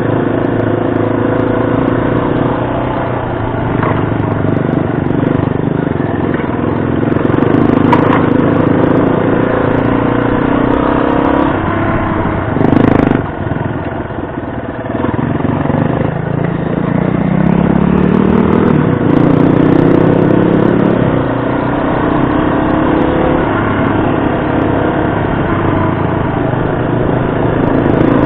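Yamaha XT250's air-cooled single-cylinder four-stroke engine running under way on a trail, its pitch rising and falling with throttle and gear changes. A brief loud thump comes about thirteen seconds in.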